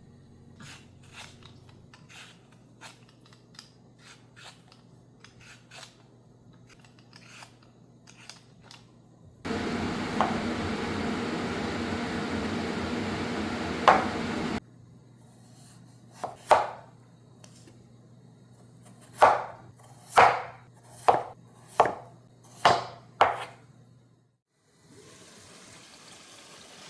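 Kitchen food preparation: light taps, then a loud steady rushing noise for about five seconds that cuts off suddenly, then a knife chopping on a cutting board, about eight sharp chops in the second half.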